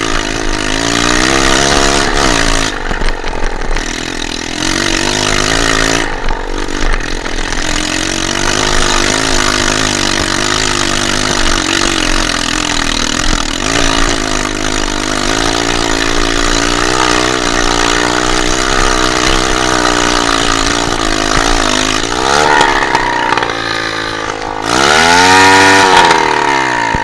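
Dirt bike engine running and revving, its pitch rising and falling repeatedly as the throttle is worked. Near the end it is revved hard up and back down, the loudest moment.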